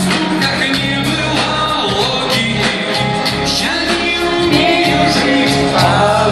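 Live pop song performed by a band with a singer: the voice carries over held bass notes and a regular drum beat.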